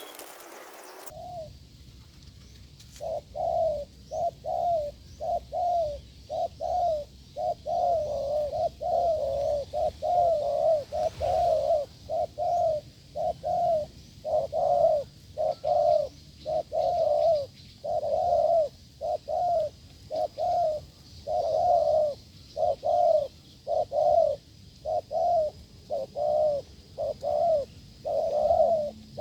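Dove cooing over and over in a fast, nearly unbroken run of short low coos, starting about a second in.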